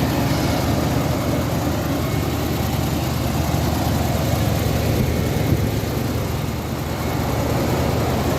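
1978 Ford Thunderbird's V8 with dual exhaust idling steadily at a cold idle.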